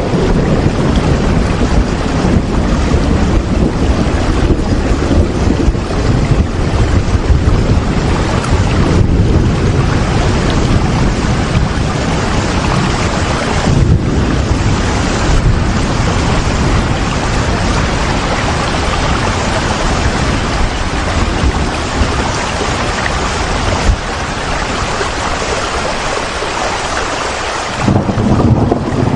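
Steady, loud rain noise over a deep low rumble. The rumble thins out for a few seconds late on and comes back just before the end.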